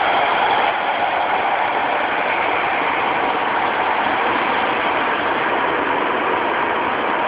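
Running sound of a Tokyu 2000 series train with Hitachi GTO-thyristor VVVF control: a steady inverter tone fades out about a second in, leaving the even rumble of wheels on rail.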